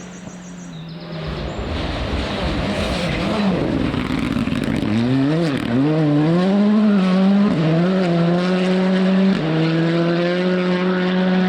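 Rally car at speed on a stage: a rush of tyre noise with a few sharp clicks. Then, from about halfway, the engine revs up and down through a corner, changes gear and holds high revs flat out.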